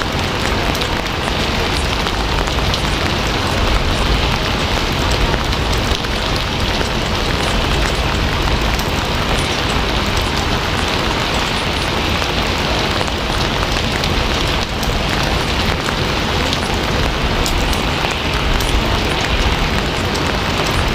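Steady, constant rain: a dense, even hiss of rainfall with scattered individual drop ticks, holding one level throughout.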